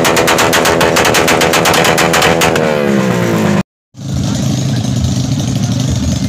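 Motorcycle engine revved hard, its exhaust firing in a rapid, even rattle while the pitch rises and falls. It breaks off abruptly about three and a half seconds in, and a lower, steadier engine rumble follows.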